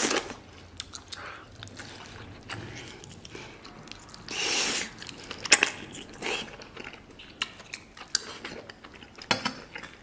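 A man chewing a big mouthful of soft braised beef, with wet smacking clicks throughout, a loud bite right at the start and a longer noisy rush of breath or slurp around four and a half seconds in.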